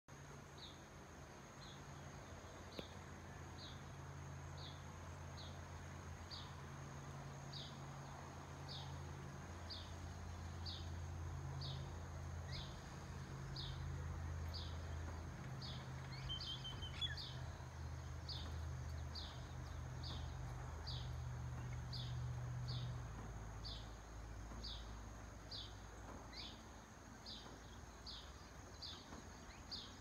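A bird giving a short high chirp over and over, about once a second. Underneath are a low steady hum that fades out about three-quarters of the way through and a faint steady high-pitched tone.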